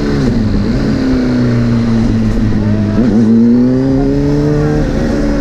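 2009 Honda CBR600RR inline-four sport bike engine running loud through a full titanium Arrow exhaust. Its note dips sharply about a third of a second in and again about three seconds in, climbs steadily, then drops near the end, as the revs rise and fall between gear changes.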